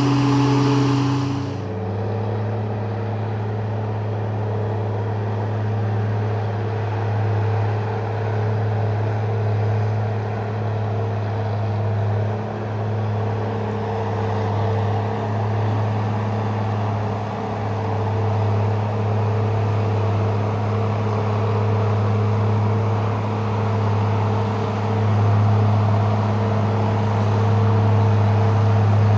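Heavy machine engine running at a steady speed. About two seconds in, the sound switches abruptly from a higher-pitched engine to a lower, steady drone that swells slightly in level now and then.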